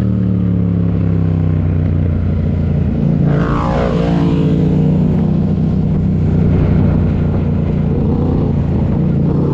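Motorcycle engine running at a steady speed, its note held even throughout. About three and a half seconds in, a second engine passes by, its pitch falling as it goes.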